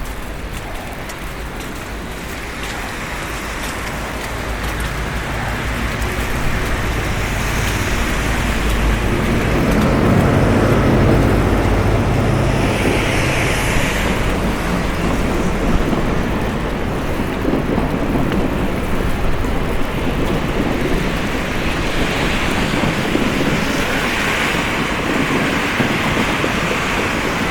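Street traffic in a snowstorm: vehicles driving past on a wet, snowy road with a steady hiss of tyres, one growing louder to pass close by about ten seconds in.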